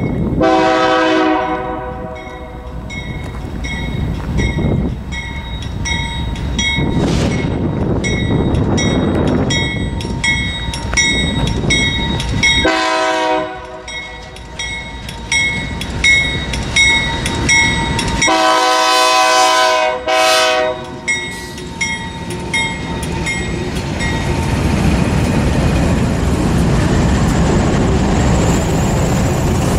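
Freight train's diesel locomotives approaching and passing, sounding a multi-note air horn in several blasts, long ones near the start and about two-thirds of the way in, for the grade crossing, with a bell ringing rapidly. After the locomotives pass, the bell stops and the cars roll by with a steady rumble of wheels on rail.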